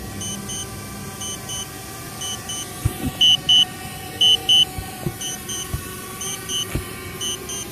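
DJI drone controller sounding its low-battery warning: high double beeps repeating about once a second, the signal that the drone's battery is low and it must return home to land.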